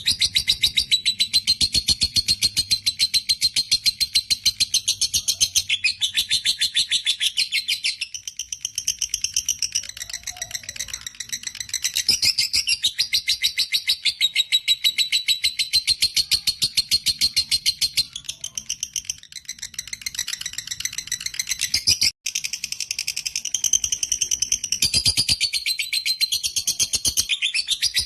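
Fighter lovebird 'ngekek' song: a long, rapid, nearly continuous chattering trill of high, shrill chirps, many to the second, with short lulls near 8 and 12 seconds in and a sudden brief break about 22 seconds in.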